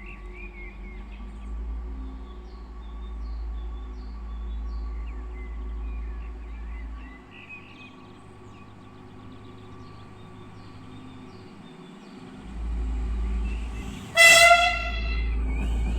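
Train horn giving one short blast near the end, loud and clearly pitched, over a low rumble. Birds chirp faintly in the first few seconds.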